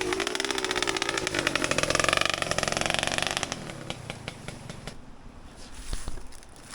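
Enduro motorcycle engine running under throttle, its pitch wavering, then fading away after about three and a half seconds.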